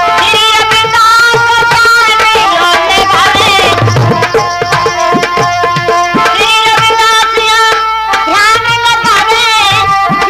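Indian devotional music interlude: tabla keeping a steady rhythm under a sustained, bending melody line.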